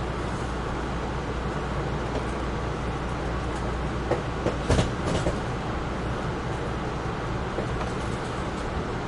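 Amtrak Northeast Regional passenger train running, heard from aboard as a steady rumble of wheels on rail. A short run of sharp clicks and knocks comes about four to five seconds in.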